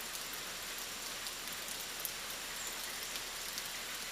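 Steady rain falling on rainforest foliage, a dense even hiss with many small scattered drop patters.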